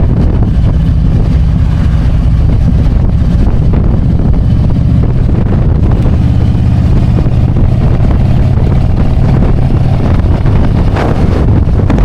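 Harley-Davidson Road King's V-twin engine running steadily while under way, with wind buffeting the microphone.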